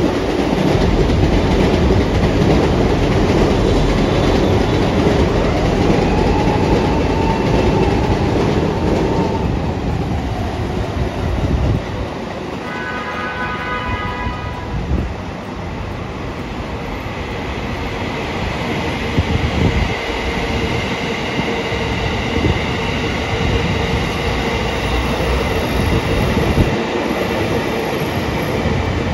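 Train running past on the rails, the steady noise of wheels on track, with a brief whine about halfway through.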